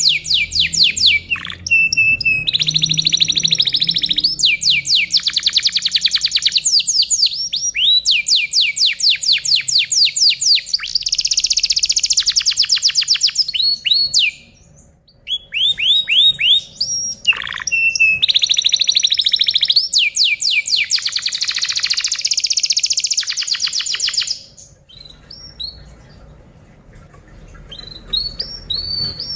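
Domestic canary singing: long, fast trills of rapidly repeated notes, broken by a short pause about halfway and fading to a few scattered notes near the end.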